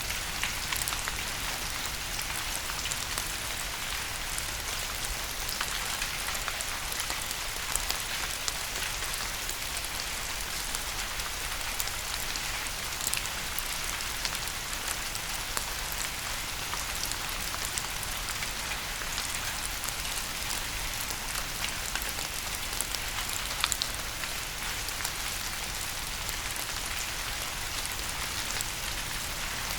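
Steady rain falling, a constant hiss with many individual drops ticking on a surface, over a low steady rumble.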